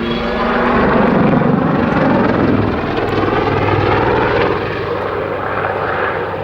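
Army Air Corps Lynx helicopter's rotors and engines during a backflip manoeuvre. The sound swells about a second in and then slowly fades.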